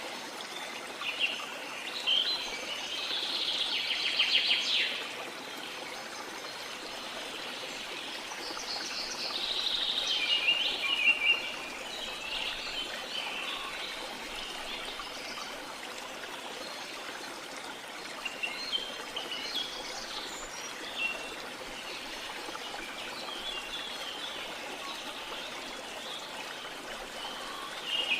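Small songbirds chirping and twittering in several bursts over a steady wash of sea water. The chirping comes in clusters near the start, around a third of the way in, and through the last third.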